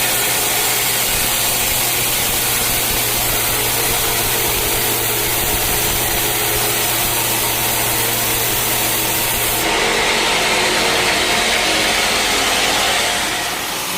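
Sawmill saw running and cutting through a teak log, a steady loud grinding noise over a low hum. About ten seconds in the sound changes abruptly to a harsher, higher rasp as the hum drops away.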